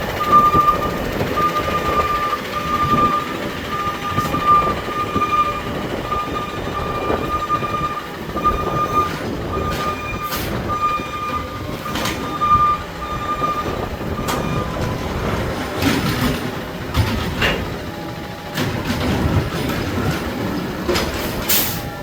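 Garbage truck's backup alarm beeping in a steady repeating pattern over the diesel engine, stopping about two thirds of the way through; sharp metallic clanks and knocks from the truck run alongside and grow more frequent near the end.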